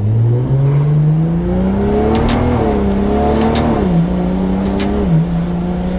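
Toyota 2JZ straight-six in a Honda Odyssey drift car accelerating under load, its revs climbing for about two and a half seconds and then holding, with short dips in pitch about four and five seconds in as the 8-speed gearbox shifts up. A thin high whine rises along with the revs, and a few sharp clicks are heard.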